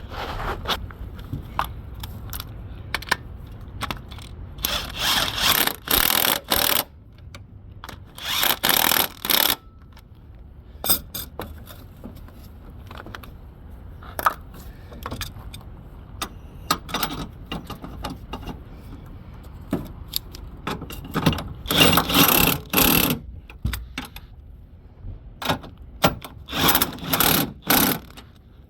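Hand tools at work on the bolts of a car's engine mount: four runs of loud, rasping tool noise, each lasting a second or two, with scattered clicks and metal knocks between them.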